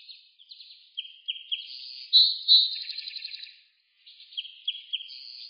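A songbird singing two similar phrases of quick chirps and trills, the second starting about four seconds in.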